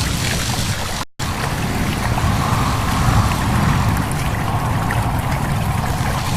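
Stream babbling steadily, with wind. The sound cuts out completely for a split second about a second in.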